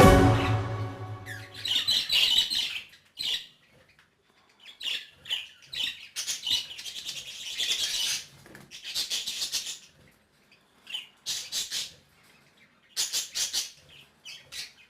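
Small pet parrots chirping and chattering in short, scratchy bursts with silent gaps between them. Background music fades out in the first second or two.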